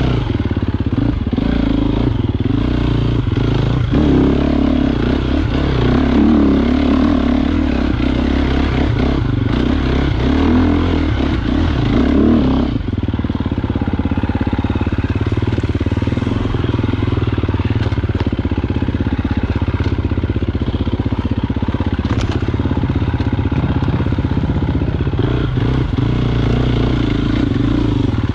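Enduro motorcycle engine revving up and down under load as it is ridden over rough terrain, with some clatter. About thirteen seconds in it settles into steadier, lower running.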